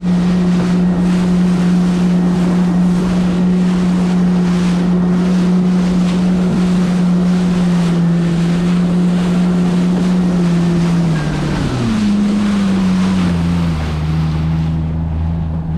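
Yamaha jet ski's engine running steadily at cruising speed over choppy water, with wind and spray noise. About 11 seconds in, the throttle comes off and the engine note falls, settling to a low idle near the end.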